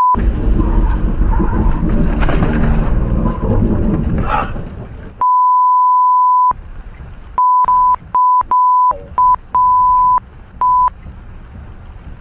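Censor bleeps at a steady 1 kHz blank out the soundtrack: one long bleep about five seconds in, then a quick string of about six short ones. Before and between the bleeps there is vehicle noise.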